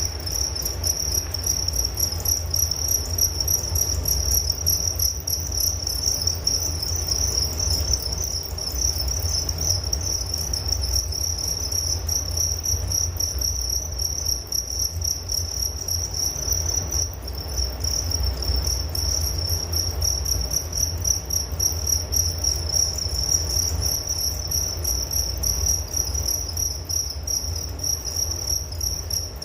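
Crickets chirping in one continuous high trill, with a low rumble beneath.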